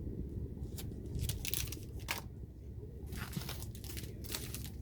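Packaging crinkling and rustling in short, irregular handfuls as craft items are handled and set aside.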